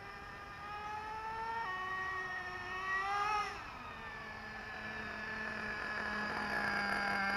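Small nitro RC engine, a Novarossi 2.5 supercharged, running at a distance on the move. Its pitch shifts about a second and a half in, rises about three seconds in, then drops back to a steady note that grows louder toward the end as the truck comes back.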